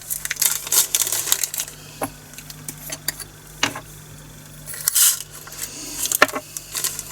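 Tiny plastic resin diamond-painting drills being poured into a storage container, a short rattling rush of the beads about five seconds in, among scattered clicks and taps of small plastic containers and bags being handled.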